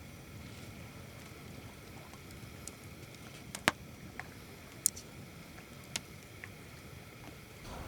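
A few isolated sharp clicks over a faint, steady low background rumble.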